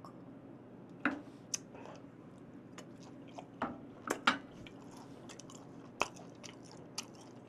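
A man chewing a mouthful of raw beef close to the microphone: soft, wet mouth clicks and smacks at scattered moments, a few of them sharper, over a faint low hum.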